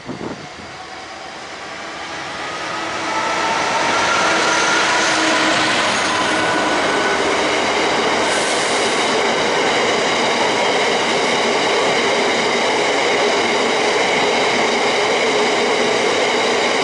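A freight train of loaded tarmac wagons passing close by. It builds over the first few seconds into a steady loud rumble of wheels on rail, with ringing squeal tones from the wagon wheels.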